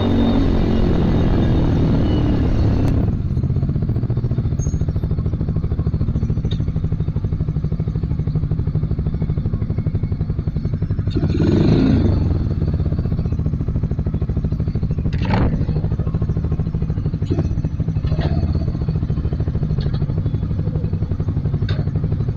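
Motorstar Z250R cafe racer's engine idling steadily, with a few light clicks and clatters. For the first three seconds, before an abrupt change, a fuller, denser sound.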